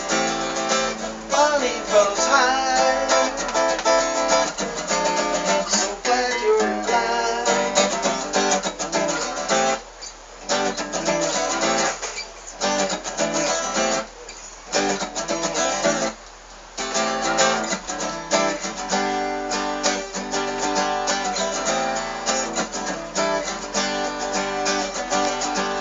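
Acoustic guitar strummed in an instrumental break between verses, with the playing dropping off briefly several times around the middle.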